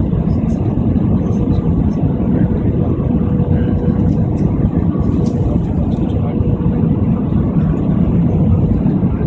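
Airliner cabin noise during the landing: a steady, loud low rumble of engines and airflow with a faint constant hum tone running through it.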